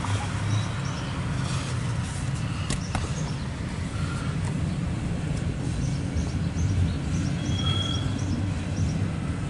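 Loaded autorack freight cars rolling past on the rails, a steady low rumble of wheels on track with a couple of sharp clicks about three seconds in, heard from inside a car.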